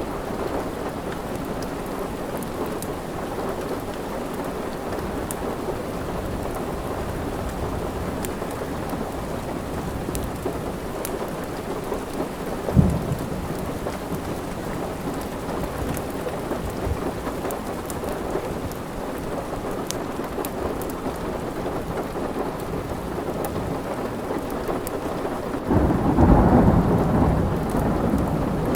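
Steady rain falling, with a rumble of thunder near the end that swells and dies away over a couple of seconds, and a short low thump about halfway through.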